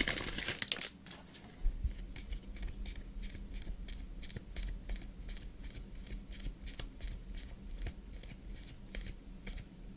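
Football trading cards being flicked through one by one, each card giving a soft click in a quick, even run of about three or four a second.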